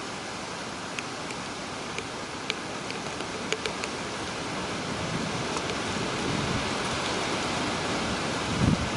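Steady hurricane rain hissing, with a few sharp taps in the first few seconds. Wind starts buffeting the microphone near the end.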